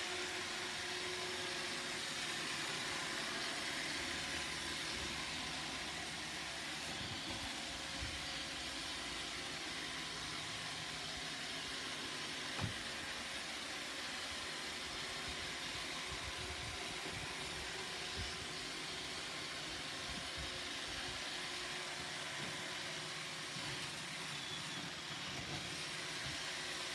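Roomba robot vacuum running: a steady whirring hiss from its fan and brushes, with a few light knocks, the sharpest about halfway through.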